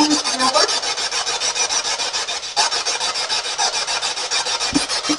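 Spirit box radio scanner sweeping rapidly through radio stations: a static hiss chopped about ten times a second, with brief fragments of radio voices near the start.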